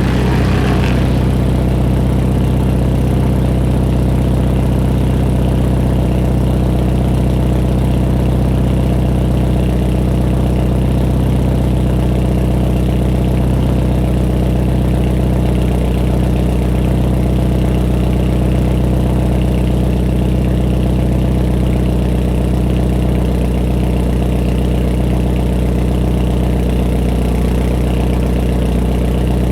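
2013 Hyundai Genesis Coupe 2.0T's turbocharged four-cylinder idling steadily through a 3-inch catless single-exit exhaust.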